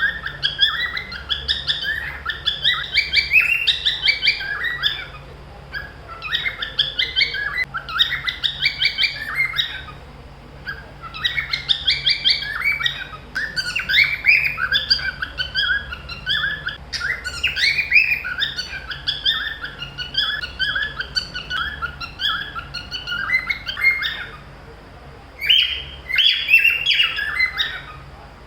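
Cockatiels chirping in rapid, busy bouts with brief pauses between them.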